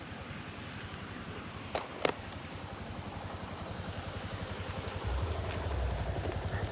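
Engine of a moving vehicle running steadily with a low pulsing, growing louder about five seconds in. Two sharp knocks come close together about two seconds in.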